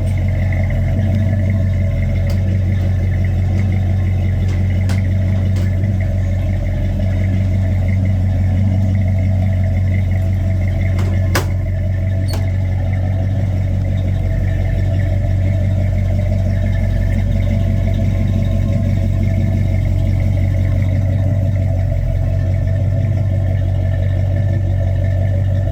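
Engine of a 1953 GMC panel truck idling steadily, with a mellow exhaust note.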